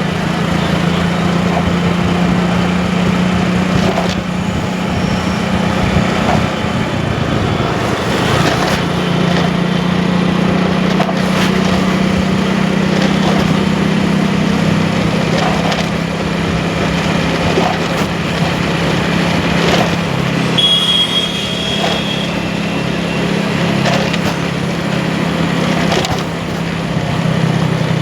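Motorcycle engine running steadily while riding, a constant hum under road and wind noise. A short, high beep sounds about three-quarters of the way through.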